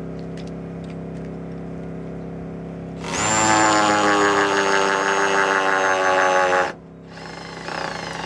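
Cordless screw gun whining as it drives a screw into a wooden rafter for about three and a half seconds, with a short second burst near the end. A steady engine hum runs underneath.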